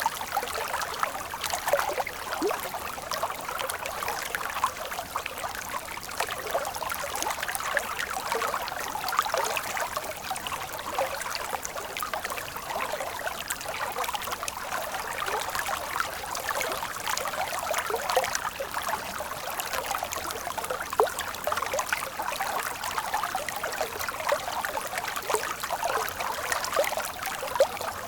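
Stream water flowing steadily over rocks, a continuous babbling and trickling with many small bubbling splashes.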